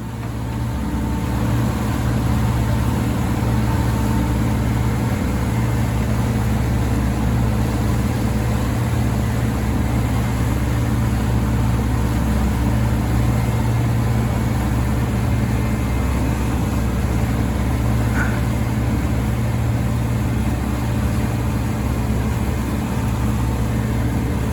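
Motorboat engine running steadily under way, a constant low hum with rushing noise over it.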